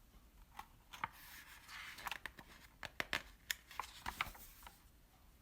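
Light paper rustling and scattered small clicks, likely from handling and turning the pages of a picture book.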